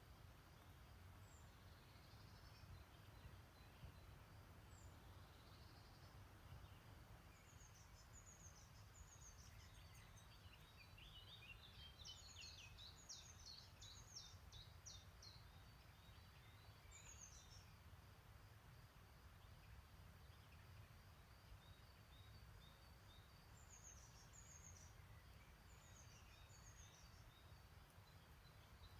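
Faint songbirds singing short, high chirping phrases, busiest about halfway through and again near the end, over a quiet, steady low rumble.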